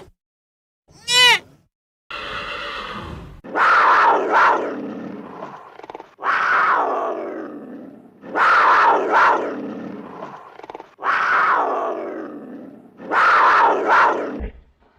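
An animal giving a series of loud, harsh roaring calls, five in a row about every two and a half seconds, each fading out, after a short pitched bleat-like call about a second in.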